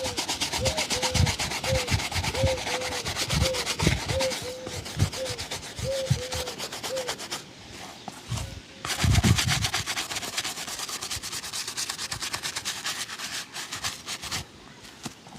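Fast back-and-forth rubbing strokes on a leather shoe during a shoe shine, breaking off briefly about halfway before resuming.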